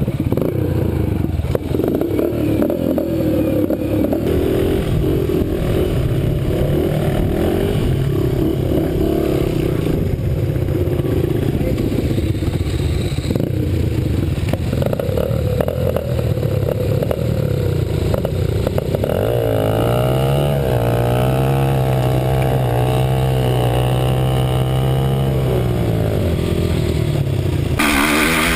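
Dirt bike engines running and revving. About two-thirds of the way through, one engine climbs to a steady held note for several seconds, then drops away, and the sound changes abruptly just before the end.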